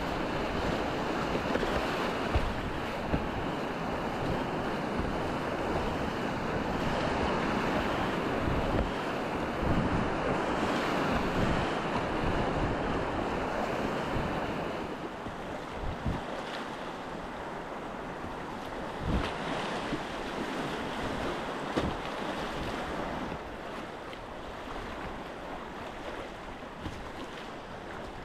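River rapids rushing loudly around a kayak, easing to a softer flow about halfway through as the water calms, with a few short thumps.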